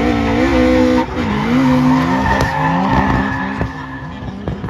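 Drift car engine revving hard, its pitch climbing and dropping several times as it changes gear through a slide, over the hiss of tyres skidding. A few sharp clicks near the end.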